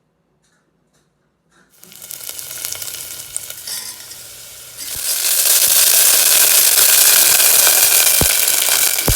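Food sizzling in a hot pan. It starts about two seconds in, grows much louder about five seconds in, and has a sharp knock near the end.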